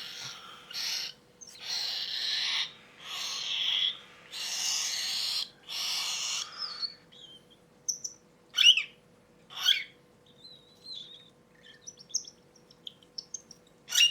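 Hand-fed cockatiel chick begging: a run of raspy, hissing food calls, each half a second to a second long, then after about seven seconds a few sharp chirps and soft peeps. The raspy begging is the feeding reaction a chick gives while taking food from the syringe.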